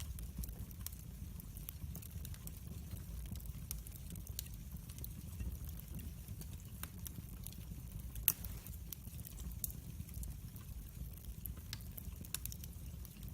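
Wood fire crackling in a fireplace: scattered small pops and snaps over a steady low rumble of the burning logs, with one louder pop about eight seconds in.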